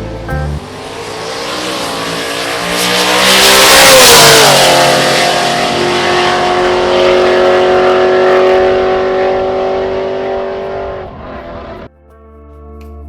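Boosted Chevrolet C10 drag truck at full throttle on a pass. The engine note climbs to its loudest about four seconds in as it goes by, then drops in pitch and holds a steady high drone as it pulls away. It cuts off suddenly about a second before the end, and music comes in.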